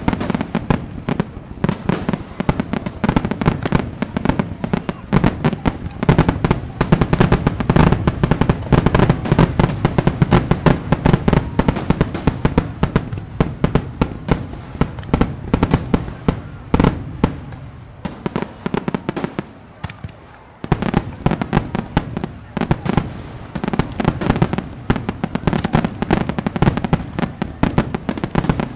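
A fireworks display: a rapid, continuous barrage of bangs and crackles. The barrage thins out and drops in level about two-thirds of the way through, then resumes abruptly.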